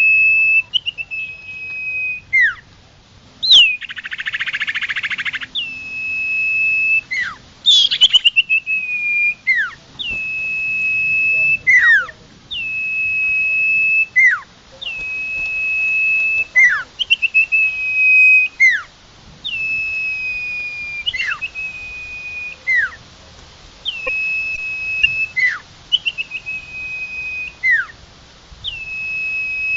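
Local sirtu songbird singing a repeated phrase: a long, steady high whistle that breaks into a quick downward-sliding note, about once every two seconds, some phrases opening with a short rapid trill. A brief buzzing noise sounds about four seconds in.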